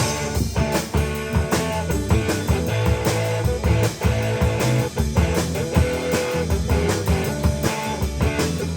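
A band playing a bluesy rock song: electric guitar over a drum kit keeping a steady beat.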